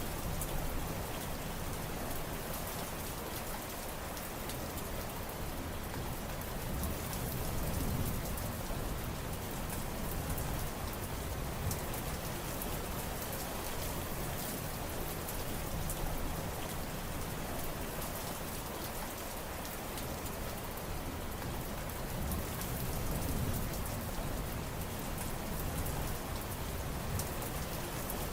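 Steady heavy rain falling and pattering on surfaces, with a dense spatter of drops and a low rumbling undertone that swells gently now and then.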